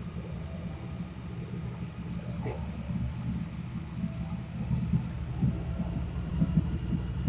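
Harley-Davidson Street Rod 750's liquid-cooled V-twin engine running steadily as the motorcycle is ridden.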